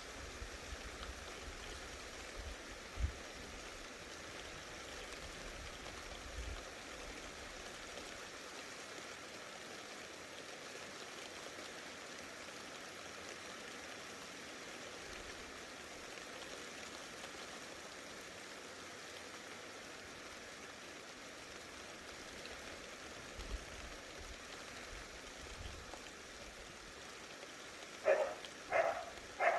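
Steady hiss of heavy rain falling in a thunderstorm, with a few brief low rumbles. Three short pitched calls come near the end.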